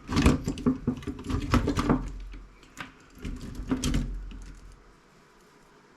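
Clicks, taps and rattles of parts being handled while a CRT monitor is dismantled by hand. They are busiest in the first two seconds, come again around three to four seconds, then die away.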